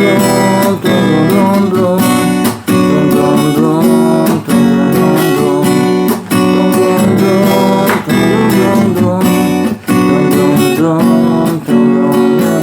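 Acoustic guitar strummed in a steady rhythm, playing the closing instrumental of the song with no singing.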